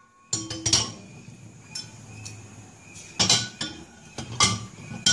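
Glass wine bottles clinking and knocking as they are set into a wine rack: about eight separate knocks, some ringing briefly.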